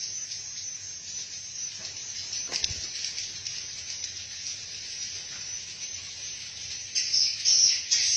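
Swiftlets twittering: a steady high-pitched chirring chatter, with louder bursts of chirps near the end.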